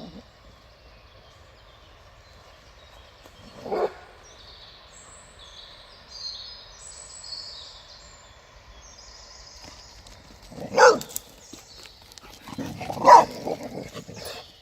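A dog barking in short bursts during play: once about four seconds in, then twice more near the end.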